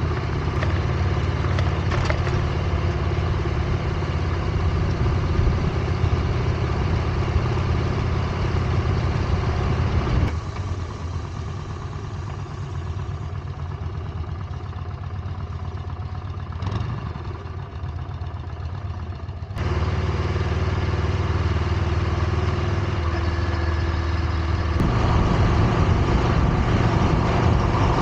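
Engine running steadily at low revs. The sound changes abruptly about a third of the way in, again past two thirds, and once more near the end, dropping quieter in the middle stretch.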